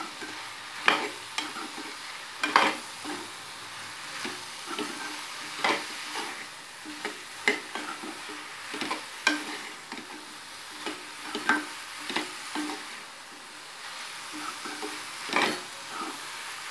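Sliced mushrooms and bell peppers frying in a pan with a steady sizzle. They are stirred with a spatula that scrapes and knocks against the pan about every one to two seconds.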